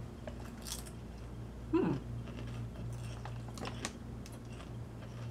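Potato chips being chewed, with scattered short crunches and crackles. About two seconds in there is a brief falling hum from the voice.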